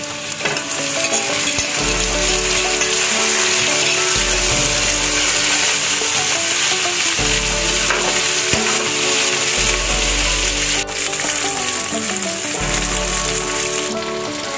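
Chicken pieces sizzling in hot oil in a frying pan with shallots and ginger, stirred and turned with a spatula. The hiss is steady and loud and builds over the first couple of seconds.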